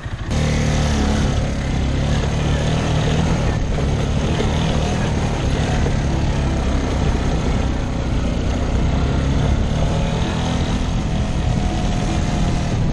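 A small off-road vehicle's engine running steadily, its pitch rising slightly about ten seconds in.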